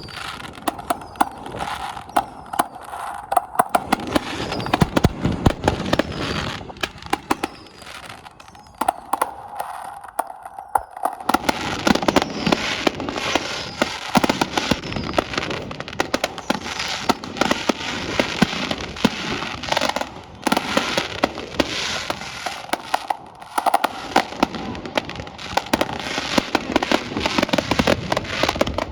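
Fireworks going off: many sharp bangs and pops at irregular intervals, with dense crackling from about eleven seconds in.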